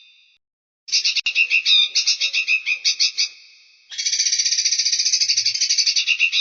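Small songbird singing in rapid, high trills of repeated notes. It stops dead briefly about half a second in, resumes, fades, then starts a faster run of notes about four seconds in.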